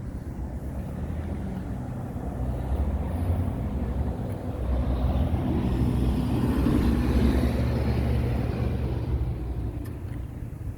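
A motor vehicle passing close by: a low engine and road rumble that swells to its loudest about two-thirds of the way through and then fades.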